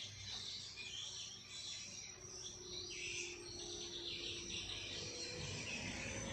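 Small birds chirping faintly and irregularly, high-pitched calls over a low background rumble.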